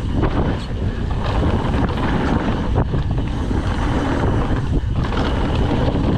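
Wind buffeting a chest-mounted GoPro's microphone at speed on a downhill mountain bike run, mixed with tyre noise on wet dirt and scattered knocks and rattles from the Trek Session downhill bike over rough ground.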